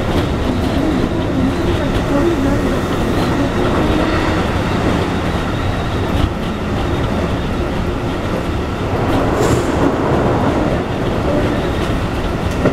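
Keikyu 1500 series electric train with a Toyo IGBT-VVVF inverter, heard from inside the passenger car while running: a steady rumble of wheels on the rails with faint motor tones. A brief high squeal comes about three-quarters of the way through.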